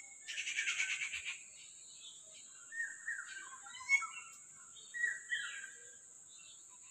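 Wild songbirds singing in trees. A fast chattering trill comes about half a second in, then several short falling phrases follow a few seconds later.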